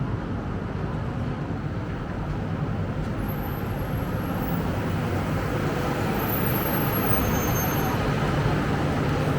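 Steady street traffic with a city bus's diesel engine rumbling, growing slightly louder in the second half. A few faint high-pitched squeals come and go around the middle.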